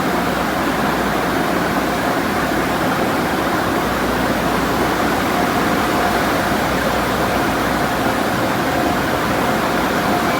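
Car wash equipment running: a steady, even rushing noise with a faint steady hum-like tone through it.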